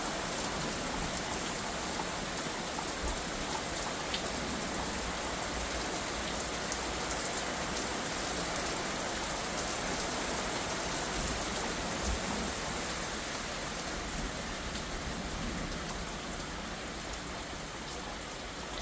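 Steady rain falling hard during a thunderstorm, easing slightly near the end.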